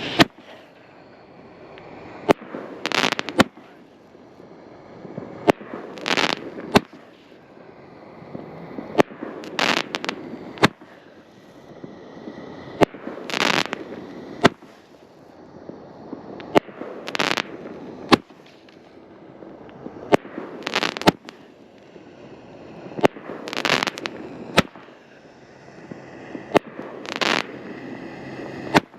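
Alien Fireworks Alter Ego firework firing shot after shot, about eight in all, one every three and a half seconds or so. Each shot is a sharp bang, a brief hissing burst, then another bang.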